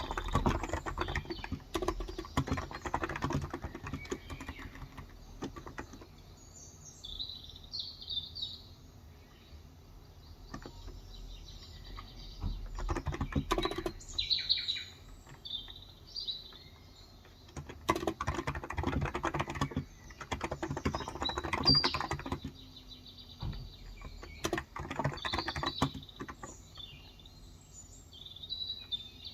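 Typing on a Cox Endeavor electro-capacitive (Topre-style) 35 g tenkeyless keyboard, in bursts of rapid keystrokes with pauses between. Small birds chirp in the pauses.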